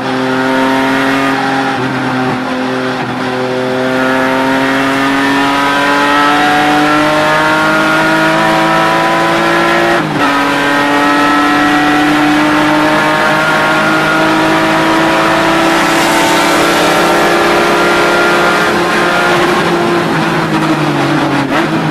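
A BMW E36 M3 race car's straight-six engine, heard from inside the cockpit, pulling hard with the revs climbing slowly. About ten seconds in the revs dip sharply at a gearshift, then climb again, and they fall near the end as the car slows.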